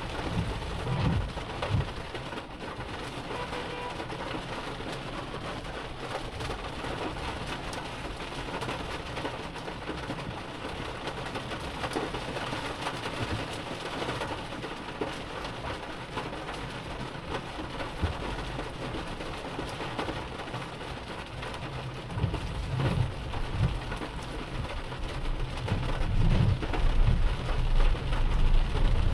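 Heavy rain falling steadily, with a low rumble building over the last several seconds.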